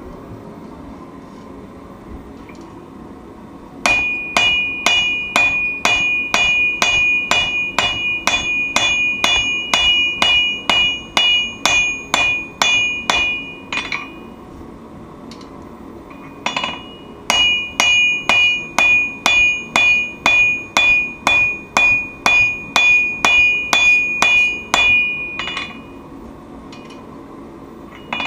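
Forging hammer striking steel on an anvil in two long runs of steady blows, about two to three a second, each blow ringing with a clear high tone. The runs are separated by a pause of about two seconds.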